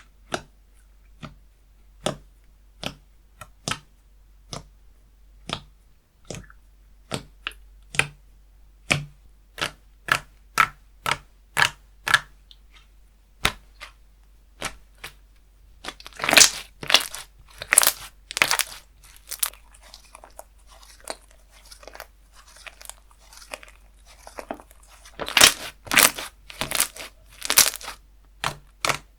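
Slime being pressed and stretched by hand, giving sharp clicks and pops at first about one or two a second, then quicker. About halfway and again near the end come spells of denser crackly popping.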